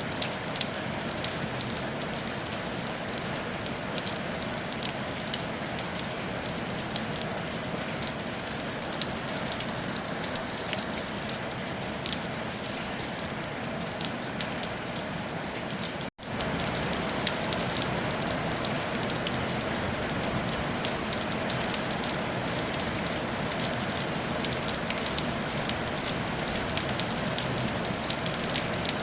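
Steady rain falling on a tile roof, a dense patter of drops. It cuts out for a split second about sixteen seconds in, then carries on a little louder.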